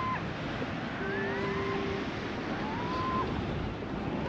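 Steady rush of ocean surf on the beach, with a few faint, short rising whistled calls over it, about three of them.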